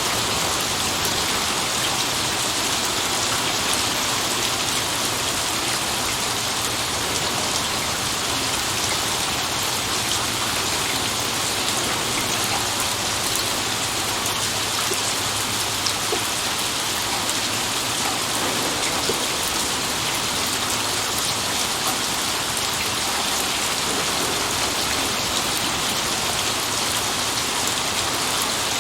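Steady heavy rain with drops pattering on surfaces. No thunder stands out.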